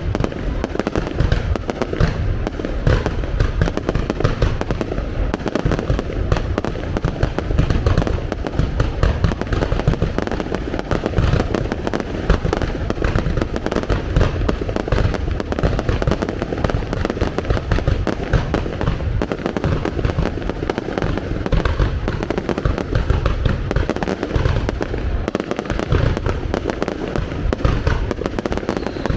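Aerial fireworks display going off: many overlapping shell bursts with deep booms, one after another without a pause.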